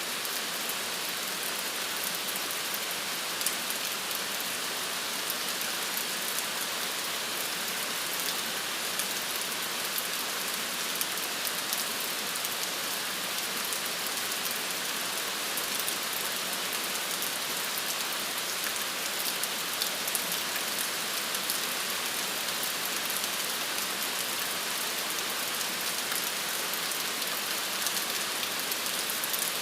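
Steady rain falling, an even hiss with fine drop patter and no change in strength.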